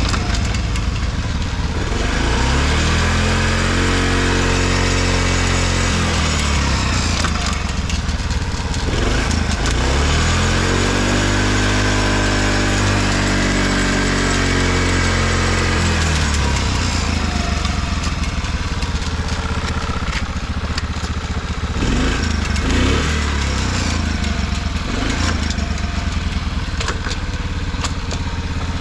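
Honda Motra's small air-cooled single-cylinder four-stroke engine running, its revs rising and falling twice. The engine runs evenly with no abnormal noise.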